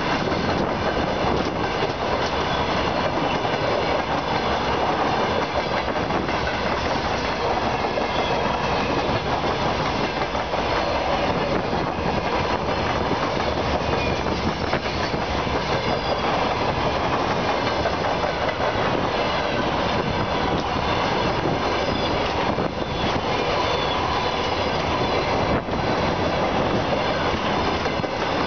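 Freight train wagons rolling past behind a 2ES10 electric locomotive: a steady, loud noise of wheels running on the rails, with faint squeals from the wheels.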